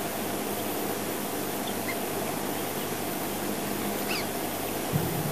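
Steady outdoor bush ambience with a constant hiss, a few faint, short bird chirps, and a low thump near the end.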